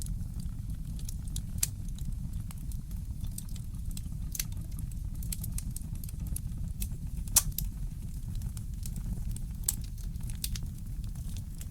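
Fireplace crackling: scattered sharp pops and snaps over a steady low rumble, with one louder pop about halfway through.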